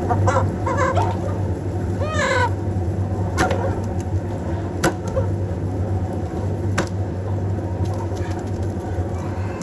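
Chickens clucking a few short calls in the first couple of seconds, with a few sharp clicks later, over a steady low hum.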